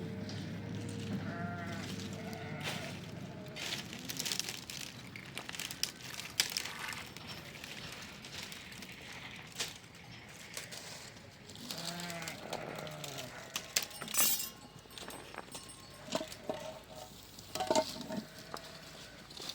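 Sheep bleating, a call near the start and another past halfway, among scattered knocks and clicks, with a low hum in the first few seconds.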